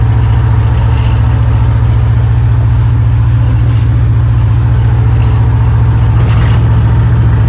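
1940 Oldsmobile's engine running steadily, a loud, even low drone.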